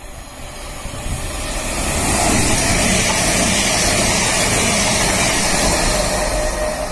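CrossCountry Voyager diesel multiple unit passing through the station at speed: a rushing noise of wheels on rail and engines that builds over the first two seconds, holds loud, and eases slightly near the end.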